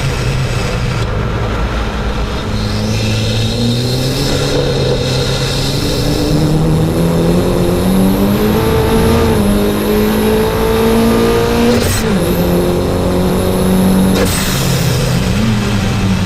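Mitsubishi Lancer 2.0 Turbo engine under hard acceleration, its pitch climbing steadily for several seconds with a thin high whine over it. The engine note drops sharply about twelve seconds in, holds, then drops again and starts climbing anew near the end.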